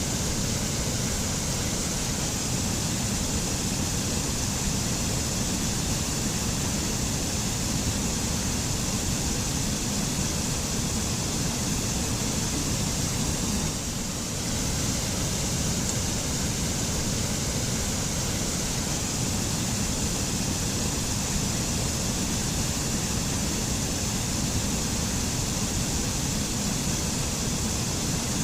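Forest mountain waterfall: a steady, even rush of falling water.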